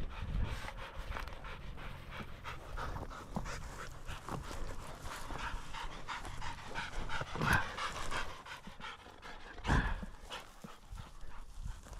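Young German Shorthaired Pointer panting in quick, repeated breaths, with a couple of louder knocks about seven and a half and ten seconds in.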